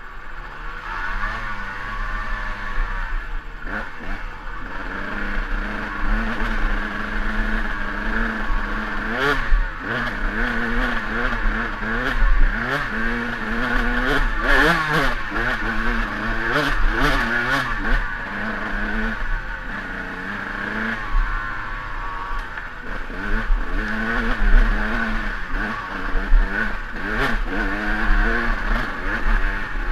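KTM EXC 200 two-stroke dirt bike engine revving up and down under load on a steep hill climb. Sharp knocks and clatter come in through the middle and again near the end.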